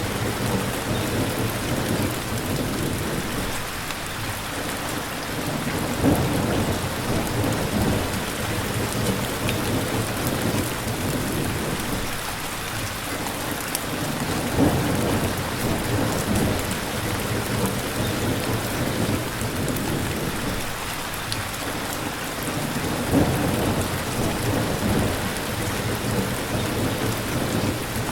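Steady rain, with a low rumble underneath and a few brief louder swells about 6, 15 and 23 seconds in.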